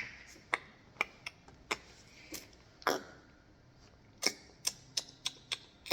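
A series of about a dozen sharp, single clicks at uneven spacing, loudest around three seconds in, with a quicker run between four and six seconds.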